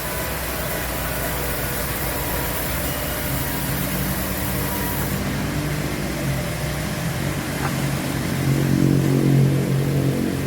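An engine running steadily under a low rumble, its hum getting louder in the last few seconds.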